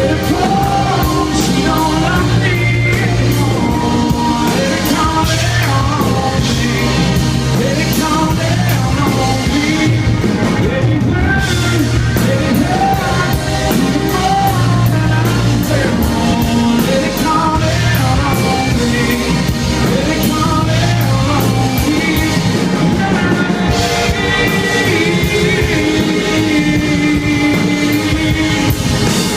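Live country-rock band playing with a singer, recorded loud from the audience.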